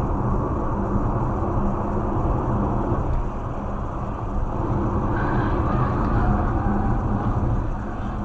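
Car driving along: steady engine and road noise with a constant low hum.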